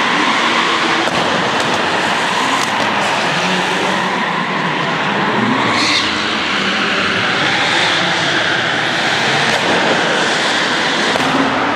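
A small rally car's engine revving up and down hard as the car drifts through a tight barrier course.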